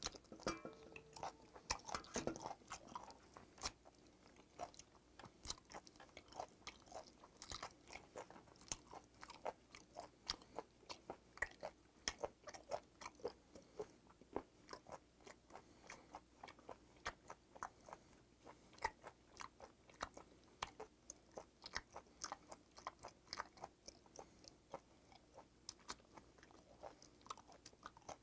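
A person chewing raw octopus: faint, irregular wet mouth clicks, a few a second, going on steadily.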